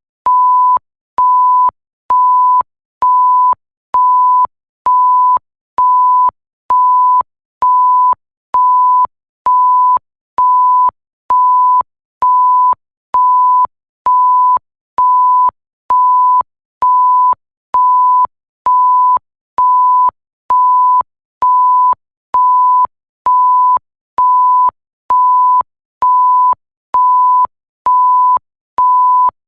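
Electronic bleep tone, a single steady pitch, repeating about once a second. Each beep lasts about half a second, with short silent gaps between.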